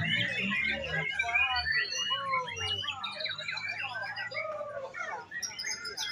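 Many caged songbirds singing at once in a contest, a dense tangle of overlapping chirps, trills and whistled notes, with a low hum under the first second or two.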